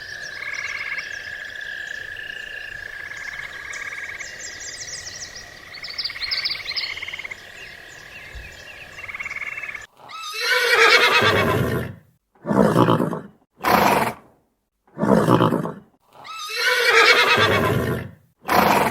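A horse neighing: a long whinny about halfway through, then five more calls, some short and some long, with silence between them. Before that, for about ten seconds, a quieter steady high tone with faint chirps over it.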